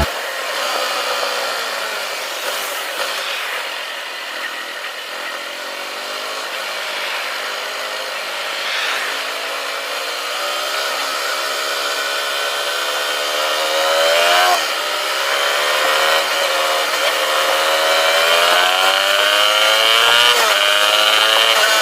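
Yamaha R15's single-cylinder engine running, its revs drifting up and down, with quick rises in pitch about halfway through and near the end.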